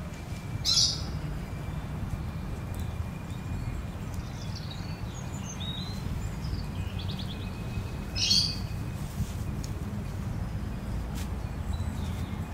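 Birds chirping: two short, loud high calls, about a second in and again about eight seconds in, with fainter chirps in between, over a steady low rumble.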